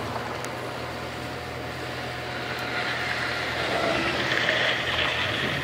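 Heavy earth-moving machine's diesel engine running steadily, growing a little louder in the second half.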